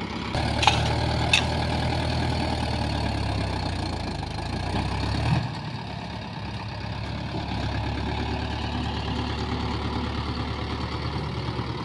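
Mahindra 585 DI tractor's four-cylinder diesel engine running steadily under load, pulling a fully loaded trolley in high gear. Its note eases off a little about five seconds in, and there are two sharp clicks about a second in.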